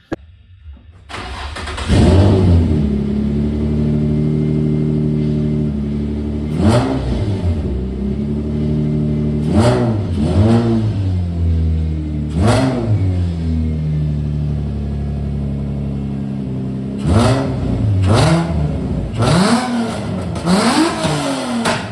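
Nissan 350Z V6 engine starting about a second in and idling steadily, then blipped with short revs that rise and fall back to idle, several times and more often near the end.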